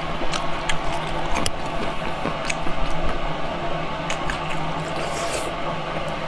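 Close-up eating sounds: wet chewing of braised deboned pig trotter meat, with many sharp mouth clicks, over a steady low hum.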